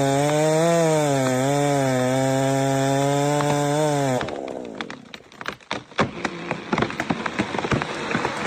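Chainsaw running at high revs under load, its pitch wavering as it bites into the wood. About four seconds in the throttle is released and the engine note falls away, followed by a run of sharp crackles and snaps.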